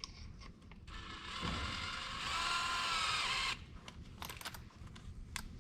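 Power drill motor whining for about two and a half seconds, rising in pitch partway through and stopping abruptly, followed by a few sharp clicks, as the drill's chuck is run to clamp onto the shank of a headlight-restoration backing pad.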